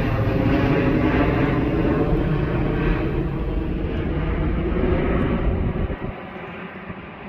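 Airliner engines roaring during a takeoff, loud and steady. About six seconds in, the deep part of the roar drops away sharply and the noise falls off.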